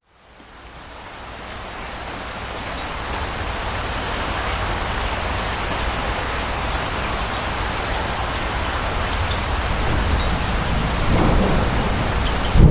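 Steady rain with a low rumble of distant thunder, fading in from silence at the start and growing gradually louder, the rumble strengthening near the end.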